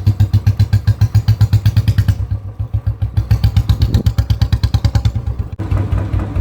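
Royal Enfield Bullet single-cylinder engine idling with a slow, even beat of exhaust pulses, about seven a second. The sound cuts abruptly about five and a half seconds in and carries on with the same beat.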